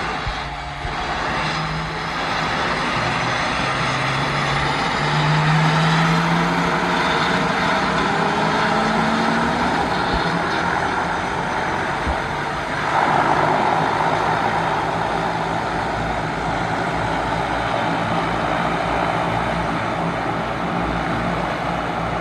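Floatplane engine and propeller running, the low engine note rising in pitch as it throttles up, growing louder about 13 seconds in.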